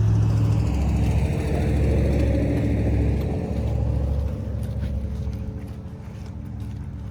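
A motor vehicle going by: engine hum and road noise, loudest in the first few seconds, then slowly fading.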